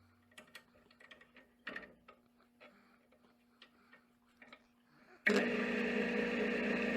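Faint scattered clicks over a low steady hum, then, about five seconds in, a loud, steady machine noise starts abruptly.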